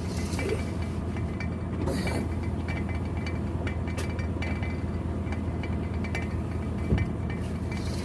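A steady low engine hum, running evenly, with a few faint clicks and knocks over it.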